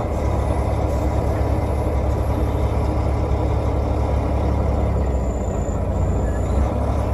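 Semi-truck diesel engine running steadily at low revs during slow reversing of a trailer, a deep, even rumble.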